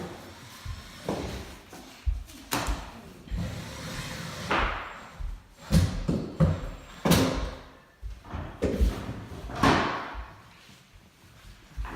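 Irregular knocks and thumps in a room with hard surfaces, some close together and the loudest about halfway through.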